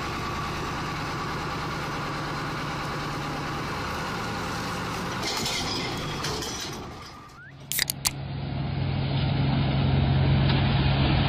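Heavy vehicle engine running steadily. After a few sharp clicks about eight seconds in, a second vehicle engine runs, steady and a little louder.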